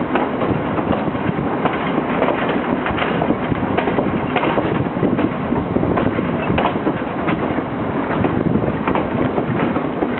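Sri Lankan passenger train running on the rails, heard from on board: a steady rumble with irregular clicks and clacks of the wheels.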